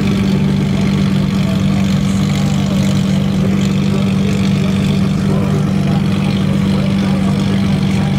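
Lamborghini Murciélago's V12 engine idling steadily.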